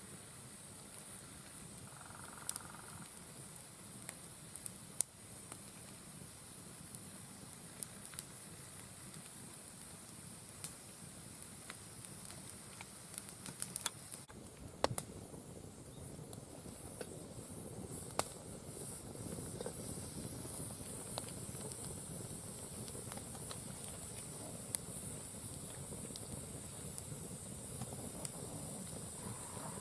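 Wood fire crackling with scattered sharp pops over a steady hiss, burning more strongly from about halfway through.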